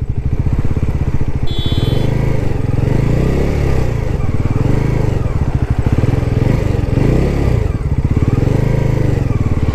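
Bajaj Pulsar NS400Z's 373 cc single-cylinder engine running at low revs, its pitch rising and falling gently as the bike is ridden in slow, tight circles. A brief high beep about a second and a half in.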